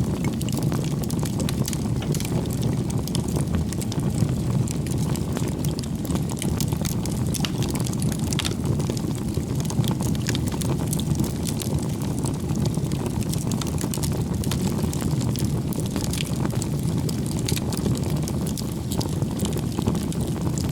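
Firewood bonfire burning steadily: a low, continuous rumble of flames with frequent sharp crackles and pops from the burning wood.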